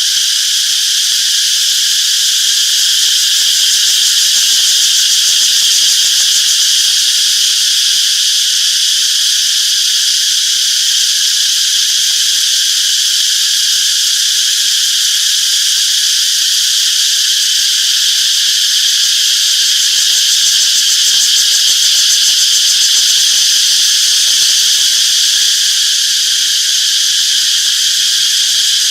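A chorus of cicadas buzzing in a steady, continuous high drone that does not let up.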